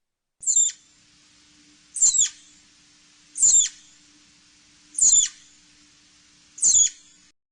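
Flying squirrel calling: five short, high-pitched chirps, each sliding downward in pitch, evenly spaced about a second and a half apart over a faint hiss.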